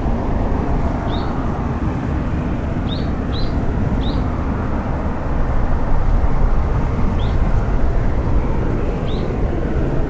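Steady rumble of a Boeing 737-800's jet engines at a distance, swelling slightly about six seconds in. A bird's short high chirps recur every second or so over it.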